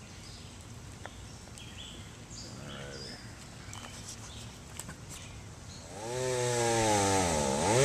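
Faint bird chirps over quiet outdoor air, then about six seconds in a chainsaw comes in running loud, cutting up storm-fallen tree limbs; its pitch dips sharply and comes back up just before the end.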